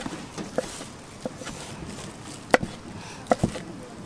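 Knife chopping on a wooden cutting board, about six irregular strokes, with two coming quickly together near the end.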